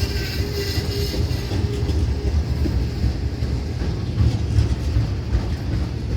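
Long Florida East Coast Railway intermodal freight train rolling past. Its loaded cars make a heavy, steady low rumble, with irregular clatter of wheels over the rails.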